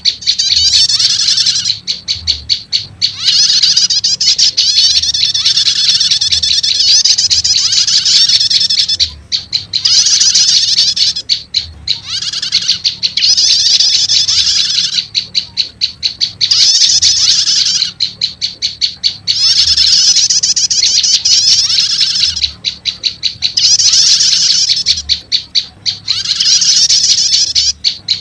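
Lure recording of prenjak lumut songbird calls combined with prenjak 'stater' calls, used to draw wild birds. It gives loud, rapid, high chattering phrases a few seconds long with short breaks between them, repeating over and over.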